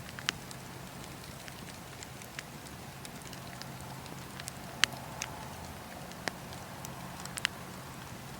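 Wood fire burning in a fireplace: a steady low rumble with sharp crackles and pops at irregular moments, the loudest pop about five seconds in.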